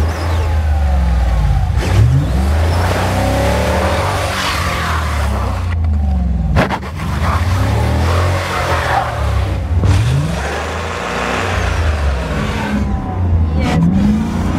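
Dodge Challenger R/T's V8 engine revved again and again, rising and falling in pitch, as the car sits stuck in snow with its rear wheel spinning.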